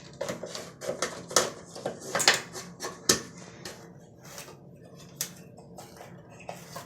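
Swiffer duster being worked around the edges of a bathroom exhaust fan's housing: irregular clicks, taps and light rattles of the handle and duster against the sheet-metal housing, busiest in the first half and thinning out after that.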